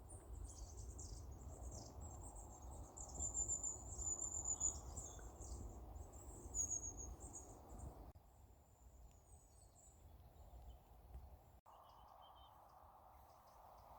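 Small woodland birds calling with many thin, very high-pitched chirps and trills over a low rumble; the calls thin out after about eight seconds.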